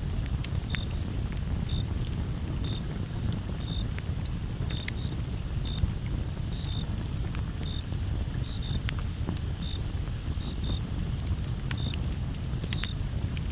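Campfire crackling, with scattered sharp pops over a low rumble of burning wood and one louder pop about halfway through. Crickets chirp in short pitched chirps about once a second, often in pairs, over a steady high insect drone.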